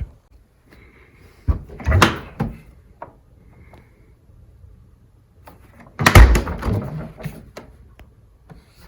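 A door or drawer being opened and shut, with a few knocks about a second and a half in and a louder clunk about six seconds in.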